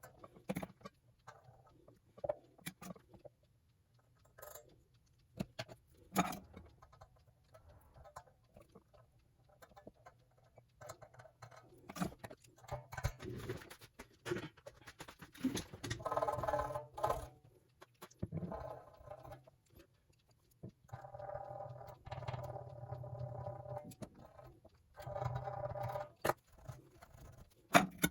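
Scattered small clicks and taps of parts and tools being handled, with several squeaky, pitched stretches lasting a second or more in the second half.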